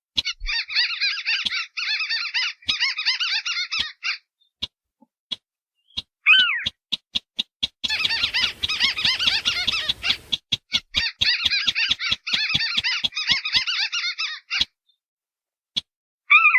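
A lure recording of marsh-bird calls, mixing sintar beker and white-browed crake (tikusan alis putih). It has rapid chattering trills in three long bursts, a short downward-sliding call near the middle and again at the very end, and sharp clicks between the calls.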